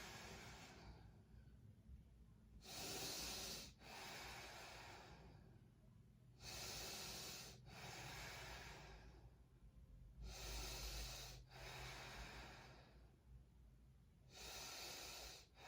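Slow, deep, audible breathing by a woman holding a yoga pose. It comes as a soft, airy in-and-out rhythm of long breaths, with a louder swell about every four seconds.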